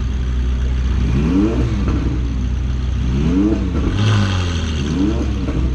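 A supercar engine revved while stationary: three throttle blips, each rising and falling in pitch, over a steady loud idle.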